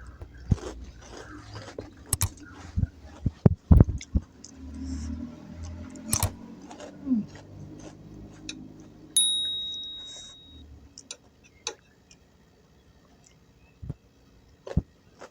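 Eating sounds: cutlery clicking and knocking against a plate, with a single clink about nine seconds in that rings and fades over a second or so.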